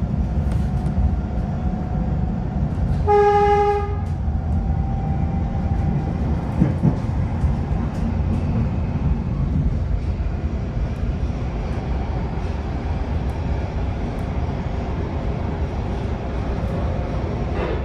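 MARTA rapid-transit train running on the rails, a steady low rumble heard from inside the car. About three seconds in, a train horn sounds one short, single-pitched blast, and a brief knock follows a few seconds later.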